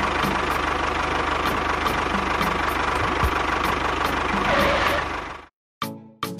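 Tractor engine running steadily, then cutting off abruptly about five and a half seconds in; music starts just before the end.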